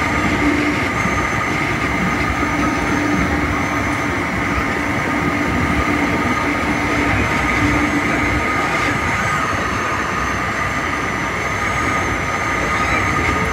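Metra commuter train running along the track, heard from its leading cab car: a steady rumble of wheels on rail with a constant high whine. A lower hum drops away about eight seconds in.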